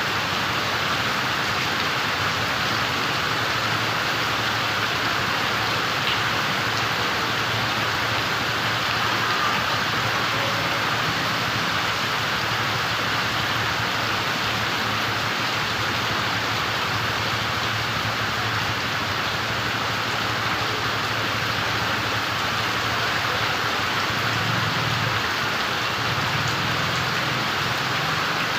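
Steady rain falling, an even hiss of drops pattering with no change in strength.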